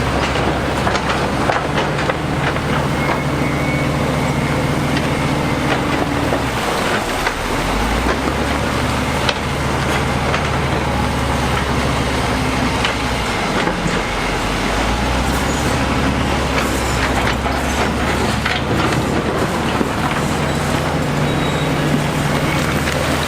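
Diesel engine of heavy construction machinery running under load, its note shifting twice, with scattered metallic clanks.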